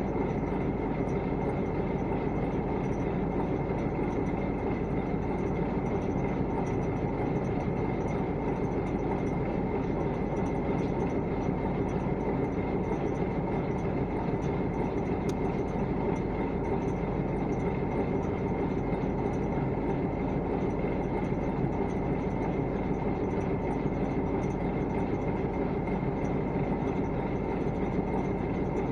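A KAMAZ truck running steadily: a constant rumble with a faint steady whine above it.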